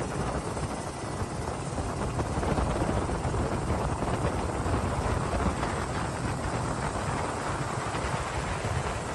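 Helicopter running: a steady, dense rotor-and-engine rumble that swells a little in the middle.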